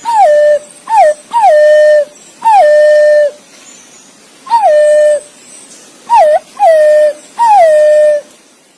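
Green pigeon (punai) calling: a series of eight loud whistled notes, each dropping quickly in pitch and then held steady, some short and some lasting close to a second, with brief pauses between them.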